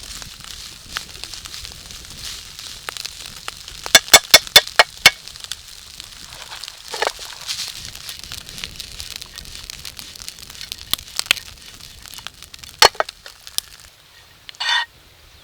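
Fried rice sizzling and crackling in a pan over a campfire, with a quick run of about six sharp taps about four seconds in and scattered clicks after. The sizzle fades out near the end, followed by a brief pitched ringing sound.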